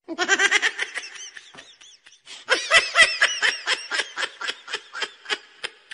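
High-pitched laughter in quick, rhythmic bursts. One laugh fades away in the first second or two, and another louder fit of laughing starts about two and a half seconds in.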